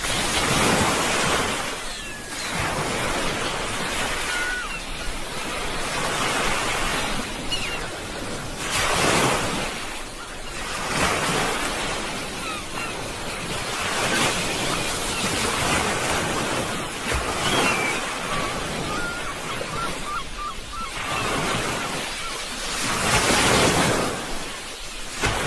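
Sea waves washing onto a shore, the surf rising and falling in repeated surges every few seconds, with louder breaks about nine seconds in and near the end.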